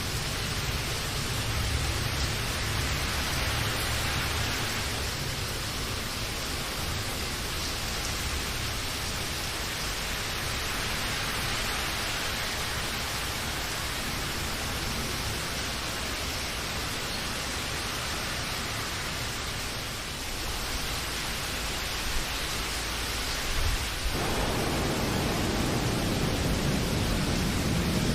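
Steady rain falling, an even hiss throughout; a deeper low rumble fills in near the end.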